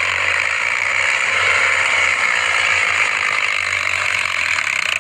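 Preet tractor running hard under a heavy load, with a steady fast mechanical rattle.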